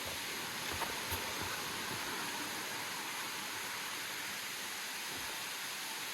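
Steady rush of falling water from a waterfall, with a couple of faint knocks about a second in.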